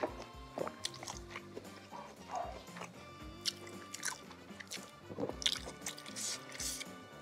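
Close-up eating sounds of someone biting and chewing cilok, chewy tapioca-flour balls in spicy broth, in scattered wet strokes over soft background music.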